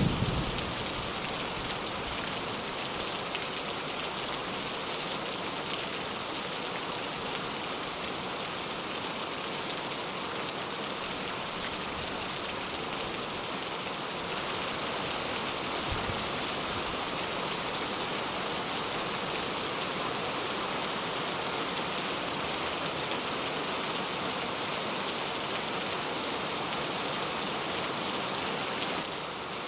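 Steady rainfall, an even hiss of drops, with the low rumble of a thunderclap dying away in the first second.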